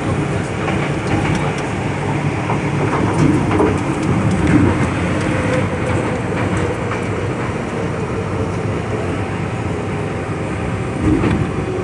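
MTR M-train electric multiple unit running along the line: a steady rumble of wheels on rail, with faint clicks now and then.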